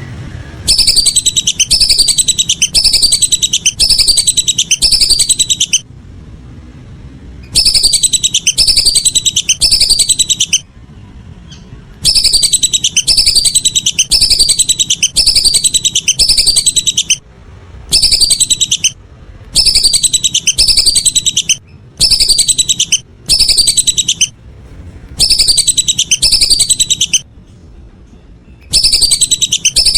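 Whistling duck (belibis) calls played as a lure recording: loud, high descending whistles repeated about twice a second in runs of a few seconds, with short gaps between runs.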